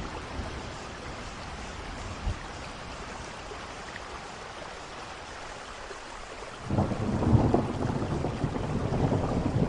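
Steady rain falling, with a loud rumble of thunder breaking in suddenly about two-thirds of the way through and rolling on to the end.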